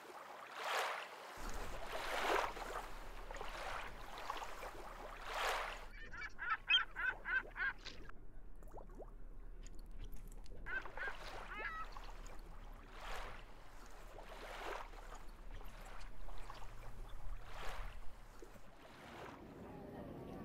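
Sea water lapping and sloshing against a harbour quay in washes every second or two. A bird calls in a quick run of about seven calls about six seconds in, and again briefly near eleven seconds.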